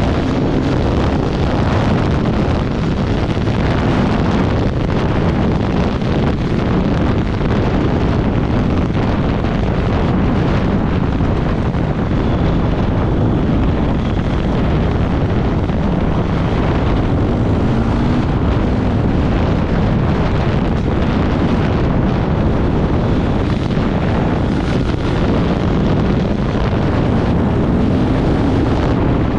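Off-road motorcycle running at speed, its engine note faint beneath heavy wind buffeting on the microphone; the engine pitch rises and falls now and then.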